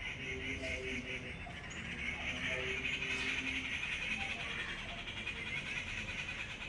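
Many small birds chirping and chattering together in a dense, continuous high-pitched chorus, a little louder in the middle.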